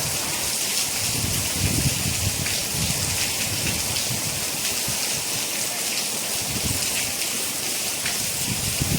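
Steady rain falling, an even hiss of many drops, with a few soft low rumbles swelling and fading.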